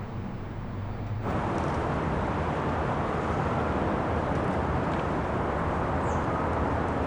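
Steady outdoor traffic noise, a constant wash of sound that cuts in abruptly about a second in, with a faint short high chirp near the end.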